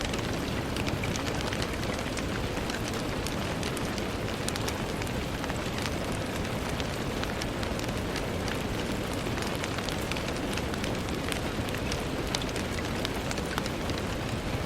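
Steady rain falling on a window, an even hiss dotted with many small, scattered drop ticks.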